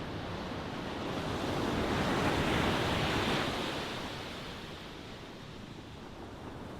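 Ocean waves: one wave swells and breaks about two seconds in, then washes back and ebbs, over the steady hiss of the surf.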